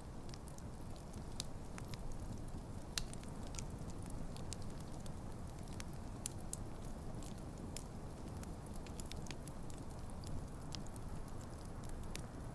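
Wood campfire burning, a steady low rumble of flames with frequent sharp, irregular crackles and pops from the burning logs.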